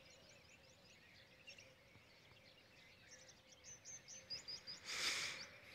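Small birds chirping and twittering, with a quick run of short, high, falling chirps about three to four seconds in, over a faint steady hum. Near the end a short burst of hiss, the loudest sound, cuts across it.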